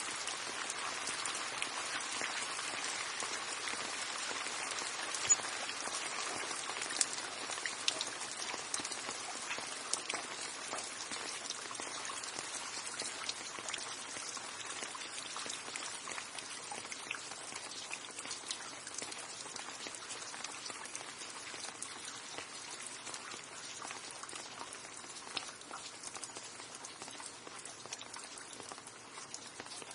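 Steady rain with many small drops tapping on a surface and a few louder single drops, growing slightly quieter toward the end.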